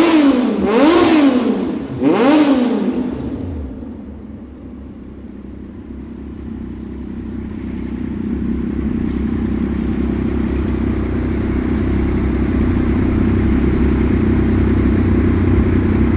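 Triumph Daytona 675 R three-cylinder engine through a Racefit shorty exhaust: quick throttle blips rising and falling about once a second for the first three seconds. It then drops back to a steady idle that grows gradually louder.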